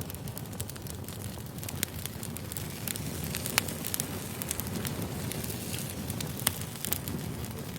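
Campfire crackling: a steady low rush of burning wood with frequent sharp pops and a few louder snaps.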